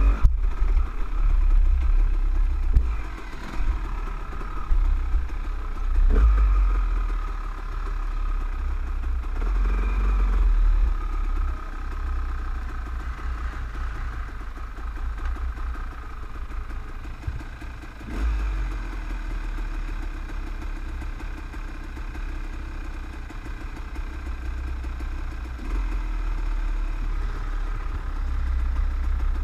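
Off-road trail motorcycles' engines running at low revs, heard from the rider's own bike, with the revs rising and falling in surges as the bikes pick their way along a slippery rocky track. A heavy low rumble runs under it throughout.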